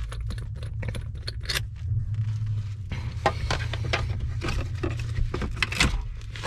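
Hand tools clinking and rattling against metal, many quick sharp clicks and jingles, over a steady low hum.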